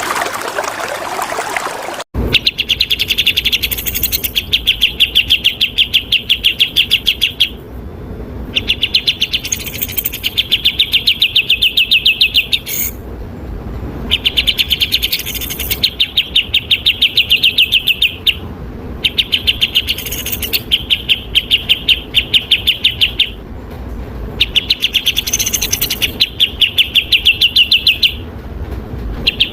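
Bulbul song from a bird-training recording: fast rapid-fire runs of sharp repeated notes in bursts of a few seconds with short breaks between. It opens with about two seconds of flowing water that cuts off abruptly.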